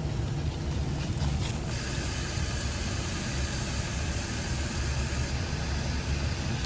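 Thin-sliced beef sizzling in a dry pan on a butane camp stove. The frying hiss swells from about two seconds in and eases off about five seconds in, over a steady low rumble.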